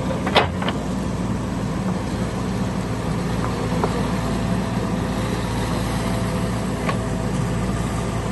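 A heavy engine running steadily at idle, with a sharp knock about half a second in and a few fainter clicks later.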